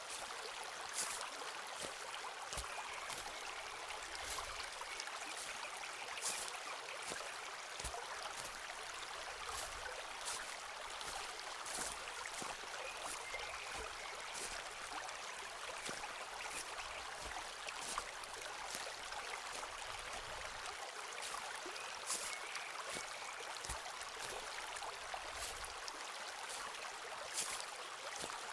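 Footsteps walking on a forest path, one crunching step every second or two, over the steady rush of a nearby stream.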